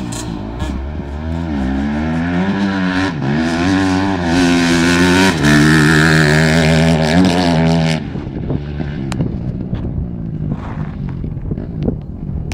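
Motocross bike engine revving up and down through the gears, getting louder over several seconds. About eight seconds in it drops off suddenly to a fainter engine sound with scattered ticks.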